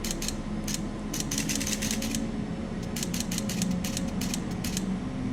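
Camera shutter firing in high-speed continuous mode: several bursts of rapid clicks, the longest about a second, over a steady low hum.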